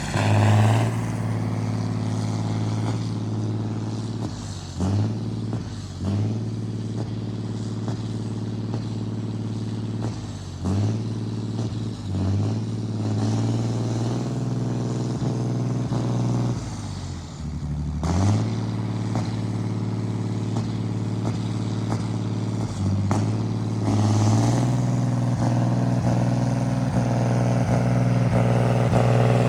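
John Deere 8220 tractor's six-cylinder diesel engine running steadily under way, its note dipping briefly and recovering about six times, then running a little faster and louder near the end. It is being driven forward and in reverse and is working as it should.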